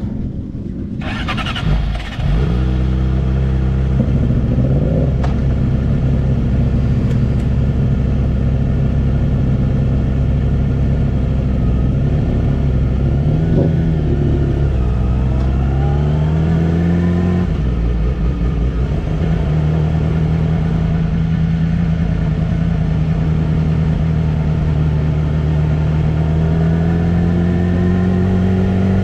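Yamaha R6 sport bike's inline-four engine running, its pitch climbing and dropping with throttle and gear changes, with one clear drop in pitch a little past the middle and a slow, steady climb near the end.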